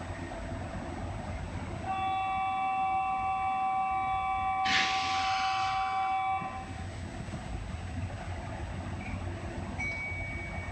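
Electric commuter train departing, its low running rumble underneath. About two seconds in, a steady chord-like horn tone sounds and is held for about four seconds, with a short hiss of air about halfway through it.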